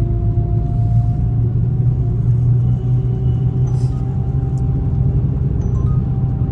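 Car engine and road noise heard from inside the moving car: a steady low rumble and hum, with a faint tone slowly rising in pitch.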